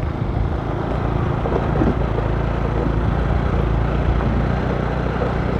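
Motorcycle engine running steadily on the move: a low hum under a constant rushing noise.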